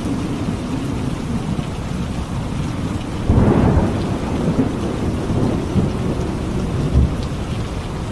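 Steady heavy rain with a thunderclap about three seconds in that rolls on as a low rumble for a few seconds.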